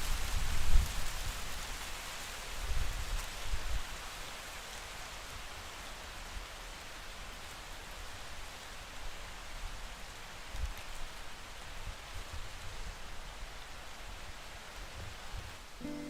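Steady rain falling, an even hiss, with a few low rumbles in the first four seconds.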